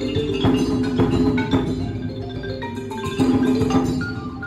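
Fast marimba playing: a soloist with rather hard mallets over a large marimba ensemble, amplified through microphones, in a dense stream of quick struck notes.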